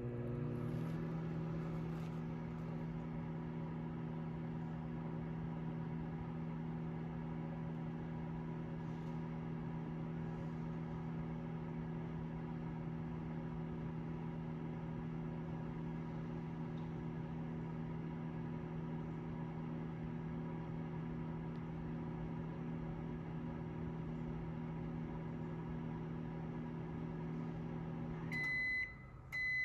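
XO XOMWD24S microwave drawer running a heating cycle: a steady electrical hum whose pitch steps up slightly about a second in. Near the end the hum cuts off and the end-of-cycle beeping starts.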